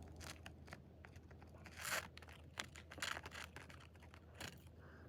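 Faint crinkling and rustling of plastic MRE packaging being handled, in a few short bursts about a second apart.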